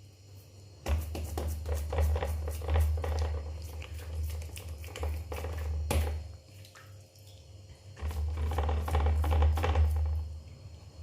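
Wet hands patting and pressing soft harsha dough flat in a heavy pan: two runs of quick soft pats and taps with dull low thuds, with a pause between them.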